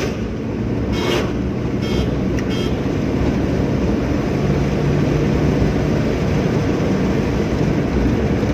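Steady engine and road noise of a Hyundai Santro on the move, heard from inside the cabin, with a few brief higher-pitched sounds about one and two seconds in.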